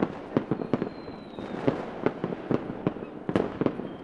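Fireworks going off: a rapid, irregular string of sharp cracks and pops over a dense background rumble, with a faint high whistle gliding slightly downward in the first second and a half.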